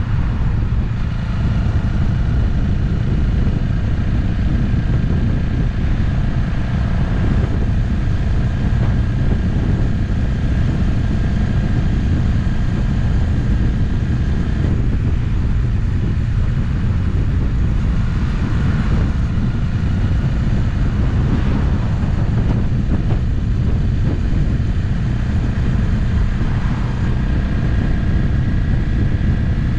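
Motorcycle riding at road speed: the engine running steadily under a heavy, even rush of wind and road noise, its note shifting a few times.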